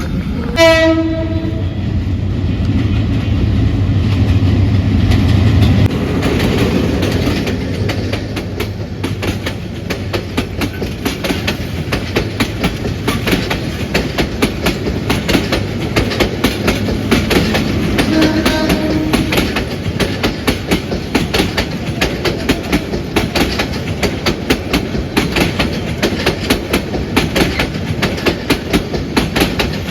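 Express passenger train passing close by. It opens with a short horn blast, and a loud low locomotive rumble runs for the first six seconds or so. Then comes the steady rapid clickety-clack of coach wheels over the rail joints, with a second brief horn blast around eighteen seconds in.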